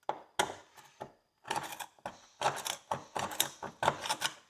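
A hand pick scraping dirt and rust off a wet horseshoe: a run of short, scratchy strokes, a few spaced apart at first, then coming thick and fast in the second half.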